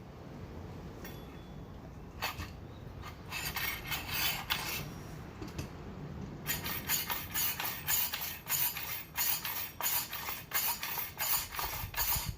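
Metal parts of a Yamaha Moto-4 recoil pull-starter being worked by hand: scraping and rubbing at first, then a run of sharp clicks about two a second from about six seconds in.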